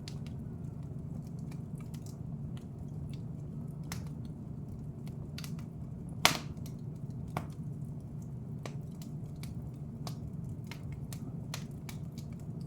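Wood fire in a fireplace crackling: scattered small snaps over a low steady rumble, with one loud pop about six seconds in.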